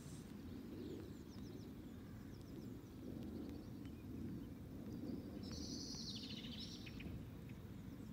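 Songbirds calling: a few quick high chirps about a second in, then a louder falling, warbling phrase just after the middle, over a steady low outdoor rumble.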